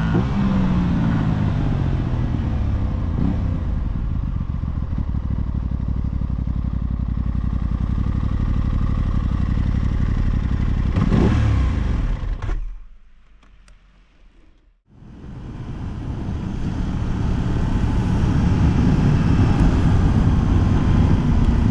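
Aprilia 660 parallel-twin motorcycle engine under way with wind noise. The engine note falls as the bike slows at the start, then runs steadily. The sound drops away almost to nothing about two-thirds of the way through, then returns and builds again, with the engine note rising near the end.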